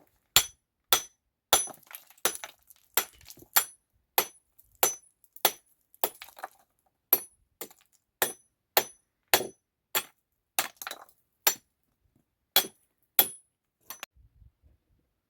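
About two dozen hard, sharp strikes, a little under two a second, each with a brief high ring, like a hammer or tool striking stone or metal; they stop about a second before the end.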